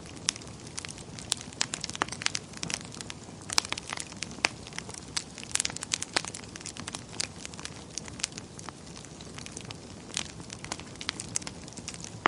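Wood fire burning in a fireplace: irregular sharp crackles and pops of burning logs, several a second, over a low steady hiss of flame.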